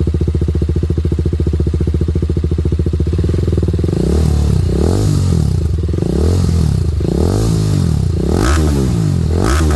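TVS Apache RR310 single-cylinder engine breathing through an aftermarket Yoshimura R77 free-flow full-system exhaust, idling steadily, then blipped up and down in quick revs about once a second from about four seconds in.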